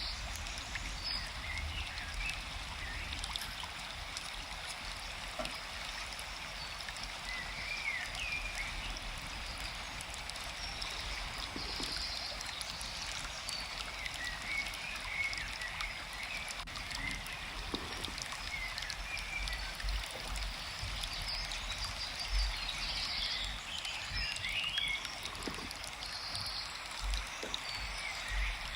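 Forest ambience: a stream running steadily, with birds chirping here and there over it.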